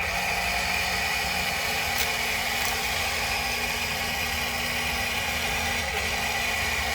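Remote-control toy excavator's small electric motors and plastic gearboxes whirring steadily as the excavator works.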